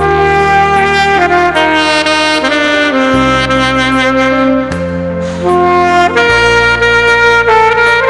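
Saxophone playing a slow melody of long held notes over a backing track, whose sustained bass notes change every second or two.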